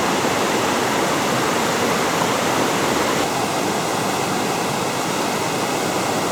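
Steady rush of water from a waterfall and fast-flowing stream, a loud, even noise with no breaks.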